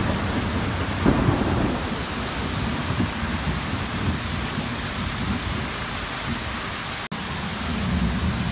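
Torrential thunderstorm downpour: a steady hiss of heavy rain over a low rumble. The sound drops out for an instant about seven seconds in.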